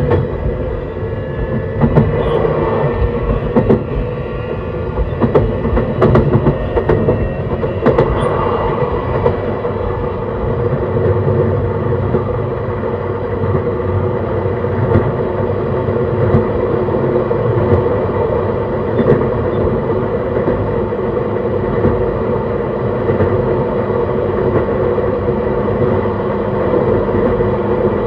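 An E131 series electric multiple unit running at steady speed, heard from on board: a continuous rumble of wheels on rail with a few steady tones from the traction equipment. A few sharp rail-joint clicks come in the first eight seconds or so.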